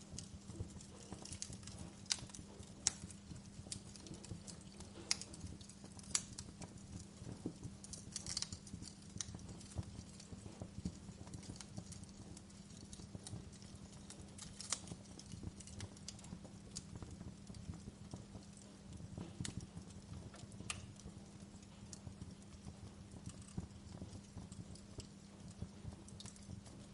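Wood fire crackling: irregular sharp pops and snaps over a low steady hum.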